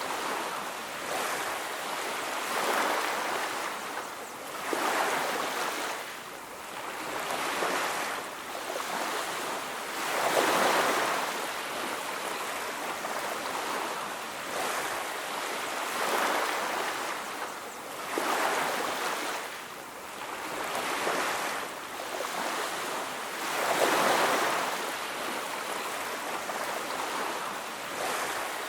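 Ocean surf on a beach: waves breaking and washing up the shore in swells that rise and fall every two to three seconds.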